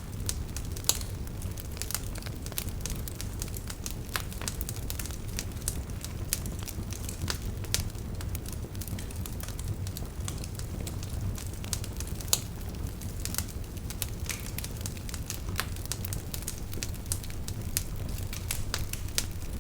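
Wood fire burning in a fireplace: a steady low rumble of the flames with frequent sharp crackles and pops, two of them louder, about a second in and about twelve seconds in.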